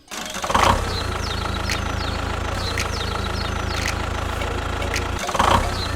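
Steady low engine idling sound of a mini tractor-bulldozer machine, with faint short high chirps repeating about twice a second.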